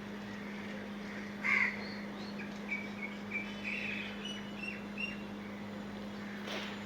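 Birds calling: one loud short call about a second and a half in, then a run of short chirps, with another call near the end, over a steady low hum.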